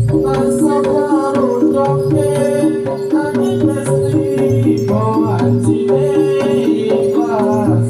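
Live Javanese Samboyo dance music: hand drums over a steady, repeating pitched ostinato, with a melody line that bends in pitch from about five seconds in.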